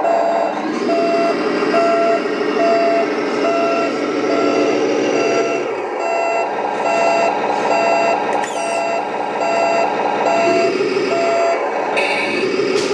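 Scale RC Scania truck's simulated diesel engine running with its reversing beeper sounding about twice a second; the beeping stops near the end.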